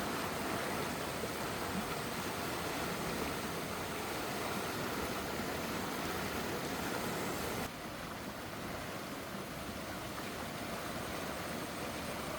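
Steady rushing noise like running water, even throughout, dropping slightly in level about eight seconds in.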